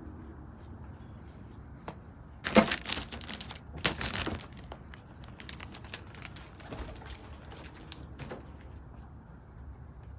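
Rustling and clattering, loudest in two bursts about two and a half and four seconds in, with scattered light clicks over a low steady hum: pigeons moving and flapping in a loft.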